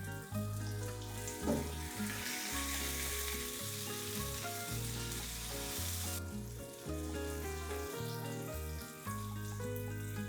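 Background music with a steady bass line. About two seconds in, food starts sizzling in a hot frying pan and goes on for about four seconds before cutting off suddenly.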